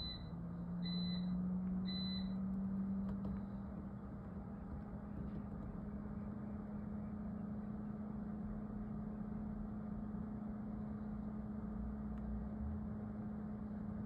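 Three short electronic beeps about a second apart, over a steady low hum whose pitch rises slightly about a second in.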